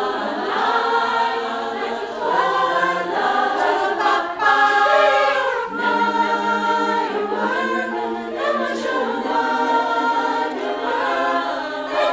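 A choir singing a cappella in several-part harmony, sustained chords held and shifting.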